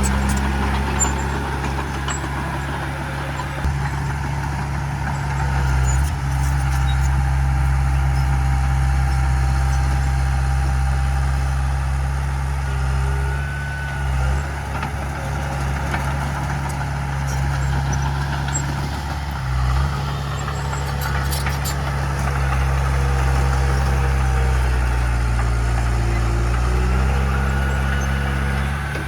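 Heavy diesel earthmoving machinery running steadily, its engine note dipping briefly a few times as the load changes, with faint metallic squeaks above it.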